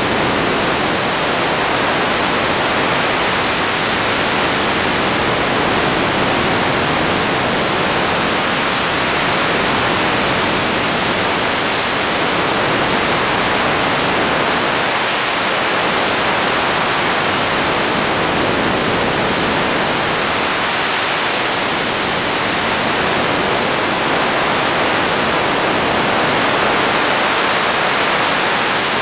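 Radio static: a steady, even hiss with no tones or voices, swelling and easing slightly over several seconds.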